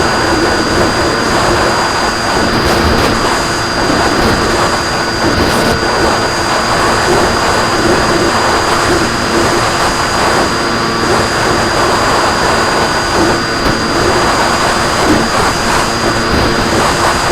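RC plane's motor and propeller running at steady throttle, a constant drone with a thin high whine, under heavy wind rush.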